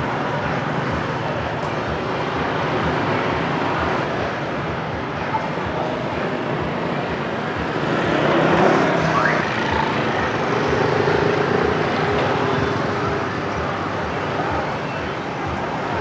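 Street traffic: motorcycles and cars running past in a steady wash of road noise, with a louder vehicle going by about halfway through.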